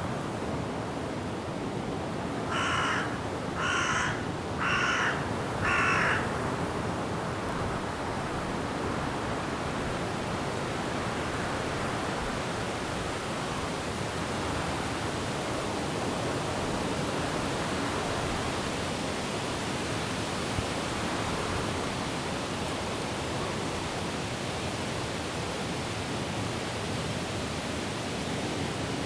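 A crow caws four times, about a second apart, near the start. Behind it the wind rushes steadily through the trees.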